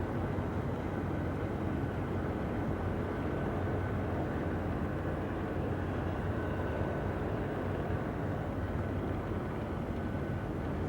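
Steady engine drone with a deep hum and a faint high whine, unbroken throughout.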